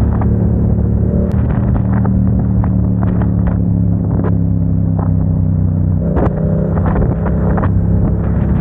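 Motorcycle engine running steadily under way, its note shifting about six seconds in, with scattered sharp knocks and ticks over it.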